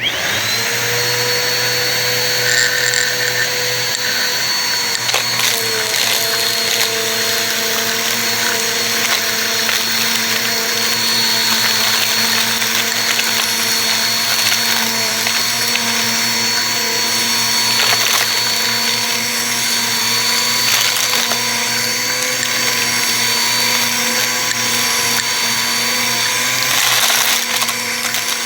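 Bissell vacuum cleaner switched on, its motor spinning up in the first half-second to a steady high whine and running on without a break. A few scattered sharp crackles come from debris being sucked up.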